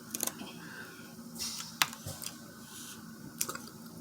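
Crab leg shells cracking as they are broken open: a few sharp snaps with short crackles and rustles in between.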